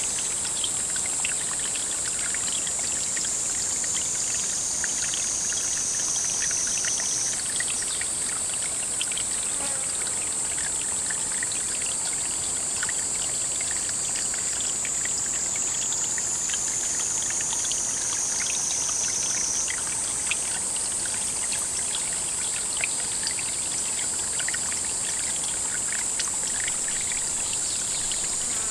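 Water running and trickling steadily, with faint crackling throughout and a constant high-pitched hiss that shifts pitch abruptly a few times.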